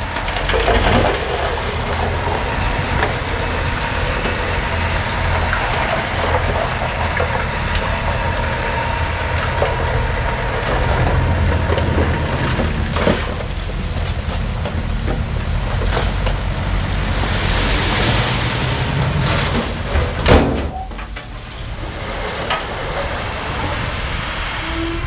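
Diesel engine of heavy earthmoving machinery running steadily, with metal clanks and knocks throughout. A hiss comes a little before a loud clank about twenty seconds in.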